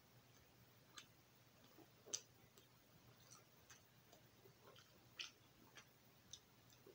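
Faint, irregular mouth clicks and smacks of someone chewing a bite of soft buttered Italian bread, the loudest about two seconds in.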